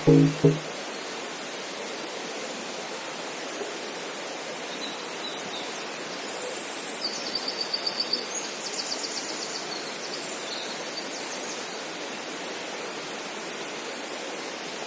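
Outdoor ambience: a steady rushing hiss, with a small songbird singing high, rapid trilled phrases about halfway through. Music cuts off just after the start.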